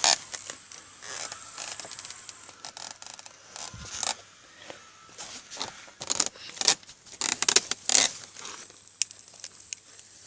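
Irregular scraping, rustling and sharp crackles of a stick stirring through the ashes and embers of a nearly burnt-out campfire.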